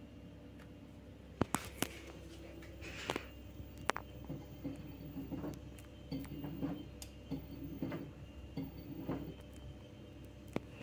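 LG F2T9GW9P direct-drive front-loading washing machine running its spin cycle: a steady motor hum with laundry shifting and thudding softly in the turning drum, and a few sharp clicks, the loudest about a second and a half in and again near four seconds.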